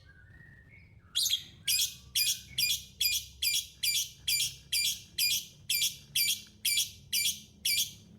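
Caged parrot calling: after a faint start, a steady run of short, high, harsh chirps, about two a second, repeated some fifteen times.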